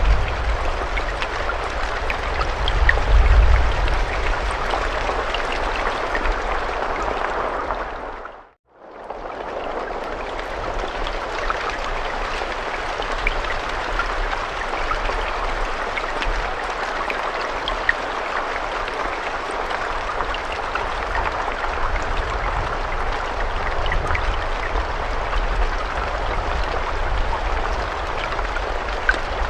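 Steady rain with scattered individual drop ticks, and a low rumble that swells about three seconds in. About eight seconds in the rain fades out to silence and fades back up within about a second, a loop seam in the recording.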